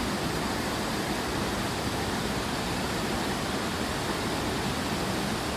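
Steady rushing of a waterfall, a continuous even roar of falling water picked up by a phone microphone.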